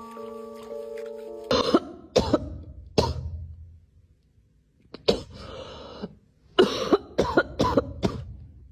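A tinkly bell-like music tune stops about a second and a half in, followed by a series of short, rough hacking coughs in clusters, with a pause around the middle.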